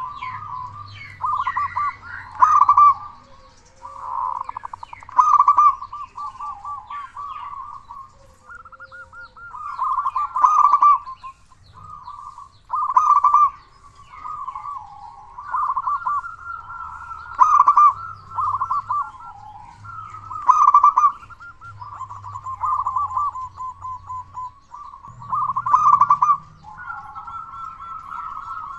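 Zebra dove (perkutut) cooing repeatedly: a loud coo phrase every few seconds with softer rolling, stuttering notes in between.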